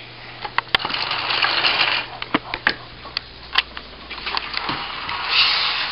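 Plastic toy trains being played with on plastic track: scattered sharp clicks and clatter, with a couple of stretches of rough whirring noise.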